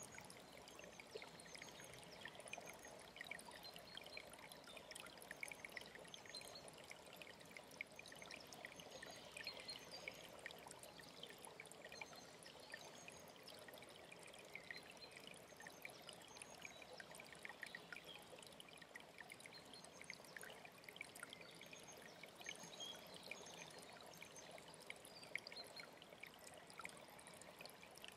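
Faint mountain stream running with a steady trickle, with small bird chirps scattered throughout.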